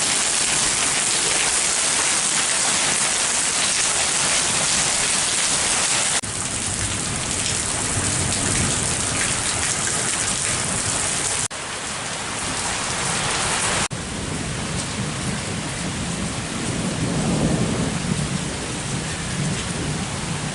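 Heavy rain pouring down as a dense, steady hiss. The sound drops in level abruptly a few times, about 6, 11 and 14 seconds in.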